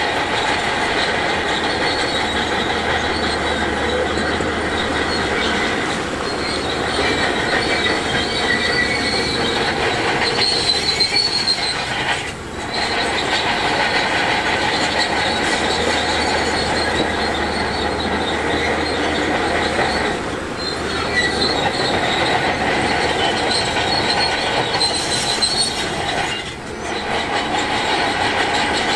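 Crawler bulldozer's steel tracks squealing and clanking steadily under its running diesel engine while it works rock, easing off briefly three times.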